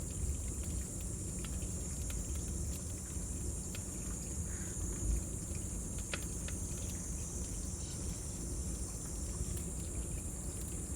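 Cicadas droning in a steady high, even chorus, part of which drops out near the end, over a crackling wood fire with scattered sharp pops and a low rumble.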